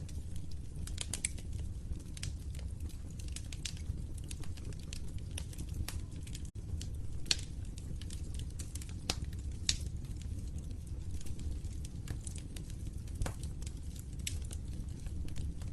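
Wood fire crackling in a fireplace: irregular sharp snaps and pops over a steady low rumble of the flames, with a split-second gap in the sound about six and a half seconds in.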